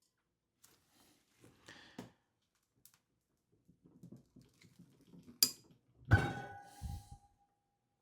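Soap-cutting tools and a soap log being handled on a work surface: light scrapes and clicks, then a sharp click and a solid knock about six seconds in, followed by a metallic ringing tone that fades over about a second and a half.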